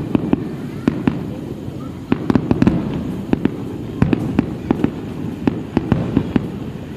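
Aerial fireworks display: an irregular run of sharp bangs and crackles, several a second, over a continuous low rumble of overlapping bursts.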